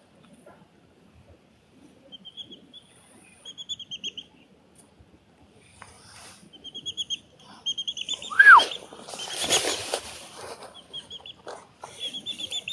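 A small bird calling in short, rapid trilled chirps, repeated every second or so. About eight seconds in comes a loud whistle falling steeply in pitch, followed by a second or so of rustling noise.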